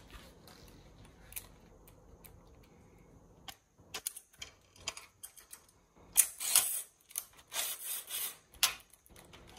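Small metal hardware clicking and rattling as U-bolt clamps and their fittings are handled and fitted to a roof luggage basket: scattered single clicks, then louder bursts of rattling and scraping in the second half.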